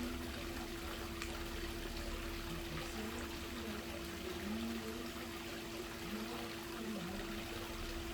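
Swimming-pool water pouring and trickling steadily, over a steady low hum.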